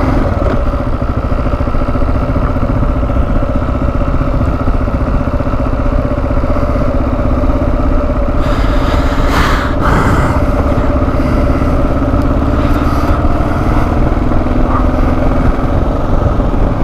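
2009 Kawasaki KLR650's single-cylinder engine running at a steady engine speed while riding. A brief louder rush of noise comes about nine seconds in.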